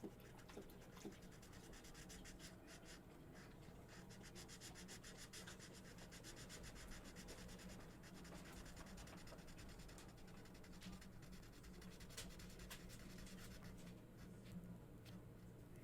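Marker colouring on paper: faint, rapid back-and-forth strokes of the tip rubbing across the page.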